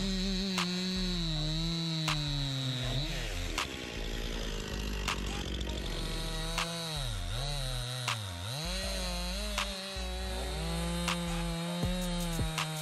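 Chainsaw engine running at high revs while cutting wood. Its pitch sags and recovers several times, with two deep dips in the middle, and sharp clicks are scattered through it.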